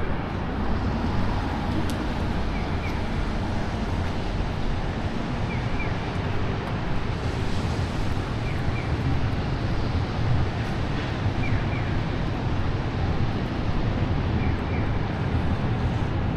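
Steady rainy city street ambience: traffic rumble under a constant hiss of rain and wet surroundings, with a faint pair of short high chirps about every three seconds.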